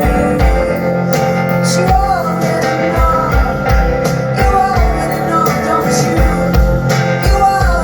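Live band music: a steady kick-drum beat under guitar, with a voice singing.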